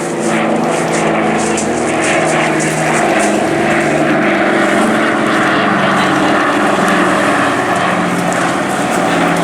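A Spitfire's Rolls-Royce Merlin V12 engine and propeller running steadily as the aircraft flies a display pass, with the pitch shifting slightly as it moves.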